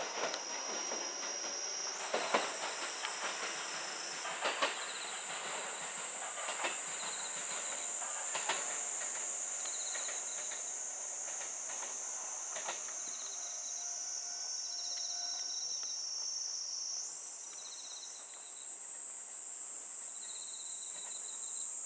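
Kintetsu 5200-series electric train pulling out. A rising motor whine fades within the first couple of seconds, then the wheels click over rail joints for about ten seconds as it leaves. Over it runs a loud, steady, high-pitched chorus of insects that shifts higher about two seconds in and again near the end.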